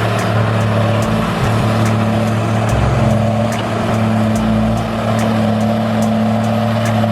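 Diesel engine of a large Tigercat skidder running steadily, its note holding level with small changes in load.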